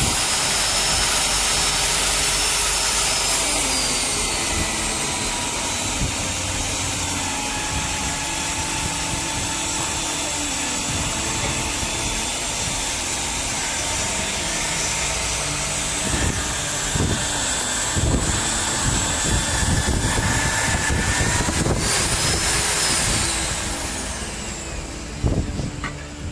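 Magnetic drill's electric motor running with a steady high whine, its pitch shifting slightly as it works. The whine rises in pitch a few seconds before the end, then fades.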